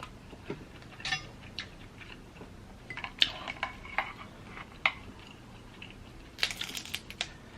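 Scattered clicks and light clinks of crab legs and utensils handled at the table while eating, a few with a short ring. A quick cluster of clicks comes about six and a half seconds in.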